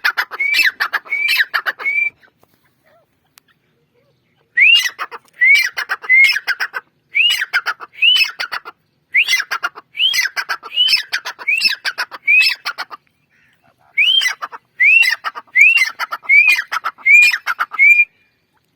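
Francolin calling: a loud, harsh series of repeated notes, each rising and falling in pitch, about two a second. The notes come in three runs with short pauses between them.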